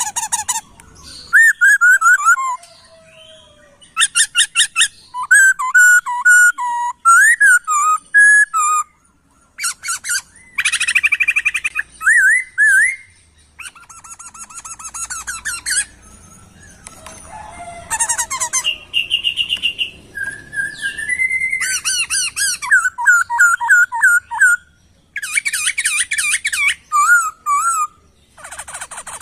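Poksay (laughingthrush) singing a long, varied song: loud whistled phrases that slide up and down, mixed with fast runs of repeated high notes and short trills, broken only by brief pauses.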